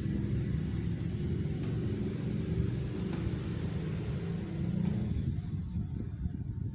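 Arashi ceiling fan running, heard as a steady low rumble with the air it blows moving over the microphone.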